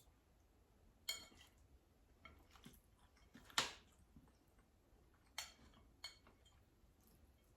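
A few faint, sharp clicks and taps of cutlery against a dish during eating, about six in all, the loudest about three and a half seconds in.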